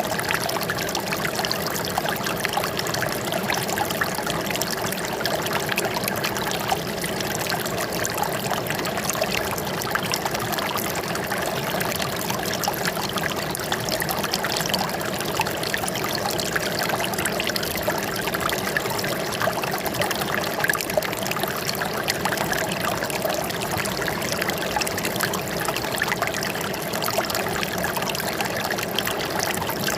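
Running water trickling and splashing steadily, a dense patter of small drips and gurgles with no pauses.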